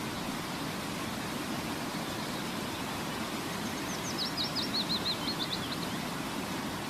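A bird sings a quick trill of about a dozen short, high, downslurred notes, starting a little higher and settling lower, about four seconds in. Under it runs a steady rushing noise.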